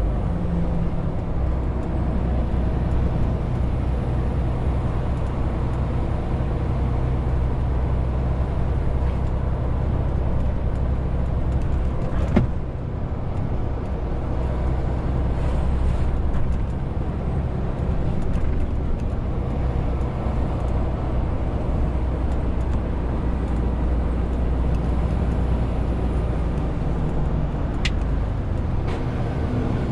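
Renault T520 truck's six-cylinder diesel running steadily under a 40-tonne load, a deep even drone with tyre and road noise. A sharp click about twelve seconds in, with a brief dip in engine sound after it, and another faint click near the end.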